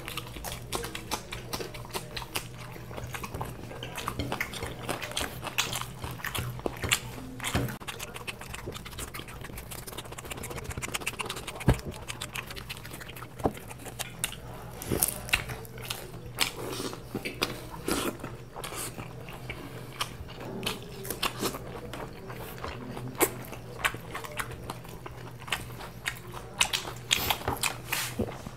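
Close-miked eating: biting and chewing of fried Mughlai paratha, raw green chillies and cucumber, in many irregular crunches and wet mouth clicks. A faint steady hum runs underneath.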